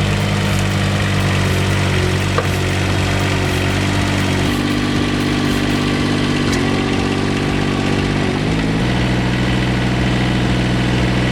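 An engine running steadily. Its note shifts about four and a half seconds in and settles lower near nine seconds.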